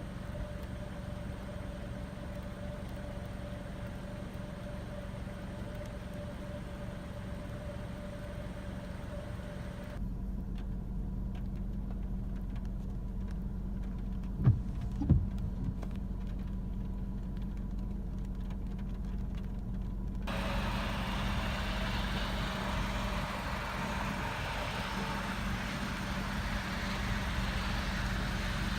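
Steady low hum of an idling engine, changing abruptly twice, with two short knocks about halfway through.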